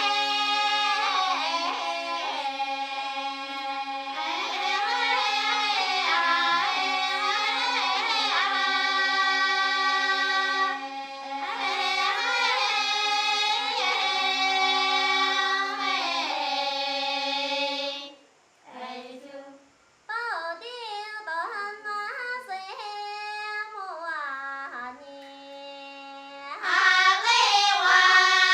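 Dong women singing a Grand Song, the Dong people's polyphonic choral style: a steady low drone note is held beneath higher voices that move above it. About eighteen seconds in, the voices stop briefly. A quieter, wavering higher line then enters, and the full group comes back in near the end.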